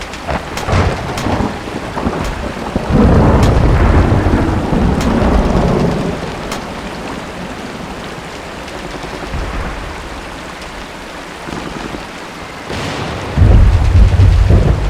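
Steady rain with thunder rolling twice, long and low: once from about three seconds in and again near the end, each starting abruptly. Scattered sharp cracks sound over the rain.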